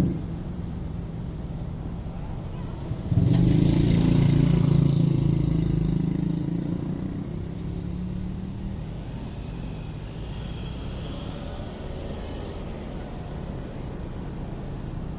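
Urban street ambience with a steady low traffic hum. About three seconds in, a motor vehicle's engine comes in suddenly and loud close by, then fades over several seconds as it passes.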